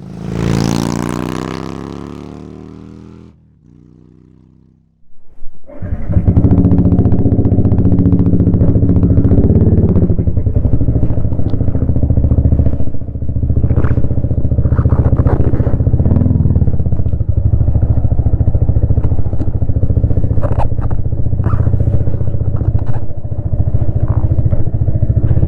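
A loud falling tone fades away over the first three seconds. About five seconds in, the Yamaha XSR155's 155 cc single-cylinder engine catches after a few stuttering bursts, then runs steadily and loudly, with a few brief clicks.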